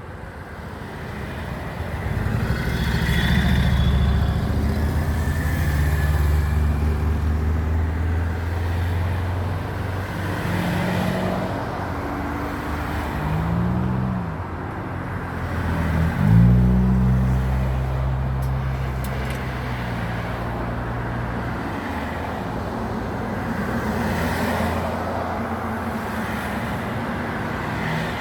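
A large vehicle engine running close by, with its pitch dipping and rising twice around the middle, loudest just past halfway, over the steady noise of road traffic.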